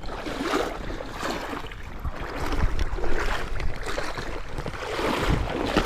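Creek water running, with wind buffeting the microphone in a low rumble and irregular swells of splashing noise.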